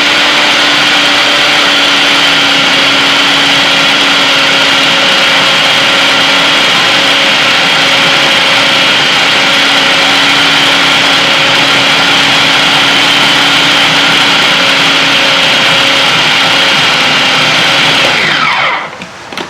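Electric food processor motor running steadily at full speed, blending minced chicken with breadcrumbs and spices into nugget mixture. Near the end it is switched off and winds down, its pitch falling.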